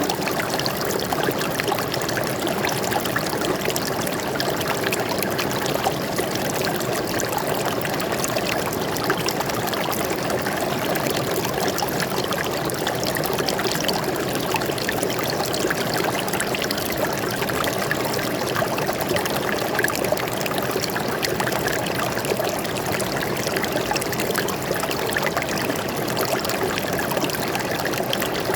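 Water flowing and splashing in a forest stream, a steady even rush with no breaks.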